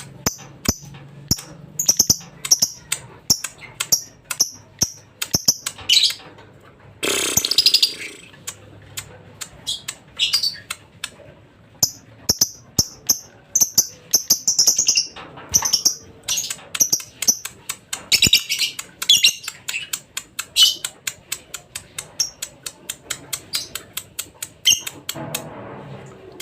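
Lovebird chattering: a rapid, unbroken series of short, high chirps and clicks, with a longer, harsher burst about seven seconds in.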